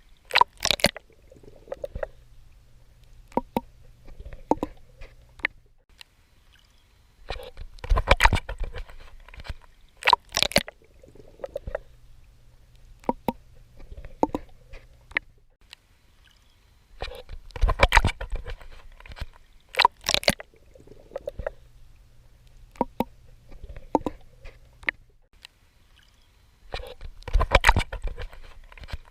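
Swimming strokes splashing and sloshing in sea water, in clusters that come round about every ten seconds, with quieter stretches of low water sound between.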